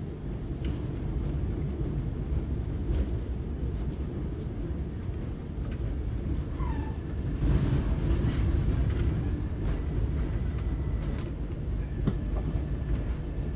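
Passenger train heard from inside the carriage while moving along the track: a steady low rumble of the running gear, with a few short knocks as the wheels pass over rail joints or points.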